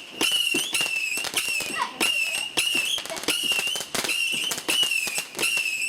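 A firework going off: a high wavering whistle that breaks off and restarts about twice a second, among dense crackling.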